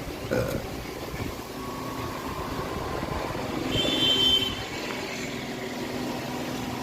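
A motor vehicle running or going past, a steady mechanical noise that swells about four seconds in, with a brief high-pitched whine at its peak.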